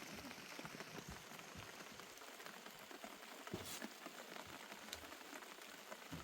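Steady light rain falling, a faint even patter with scattered sharper drop taps, a couple of them standing out about three and a half and five seconds in.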